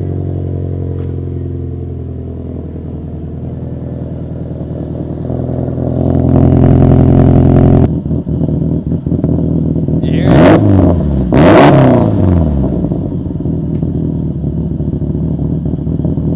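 Subaru Impreza WRX STi Type RA's turbocharged EJ20 flat-four running at cold-start idle through its aftermarket exhaust. The AVCS cam timing is active at this idle and makes it sound like it has aggressive cams. It runs louder from about six seconds in and drops off abruptly near eight seconds, then takes two quick throttle blips, each rising and falling in pitch, before settling back to idle.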